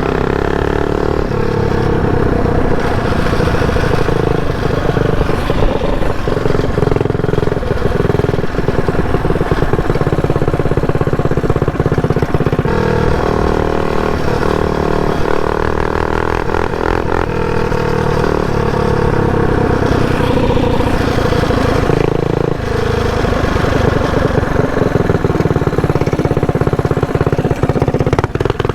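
Mini bike's cammed Predator single-cylinder four-stroke engine running hard under throttle while riding, its pitch rising and falling as the throttle is opened and eased, with a brief let-off about halfway through and again about two-thirds of the way in.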